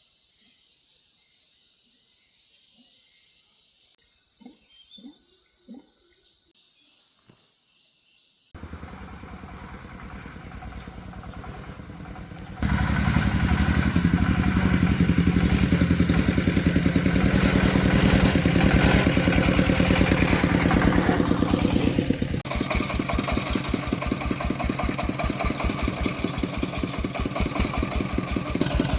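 An agricultural vehicle's engine running with a regular chugging pulse, coming in after a few quieter seconds and growing much louder partway through.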